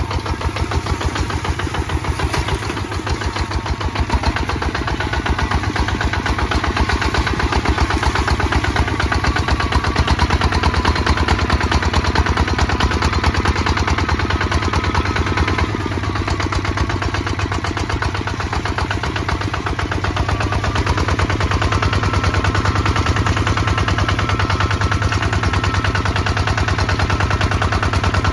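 Kubota ZT155 DI single-cylinder diesel engine running steadily, with a rapid, even chugging beat.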